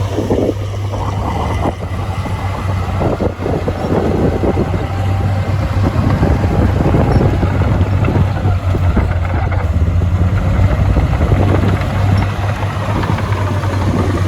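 Heavy diesel earthmoving machinery running steadily: a deep, constant engine drone with uneven rattling noise over it, slightly louder after about four seconds.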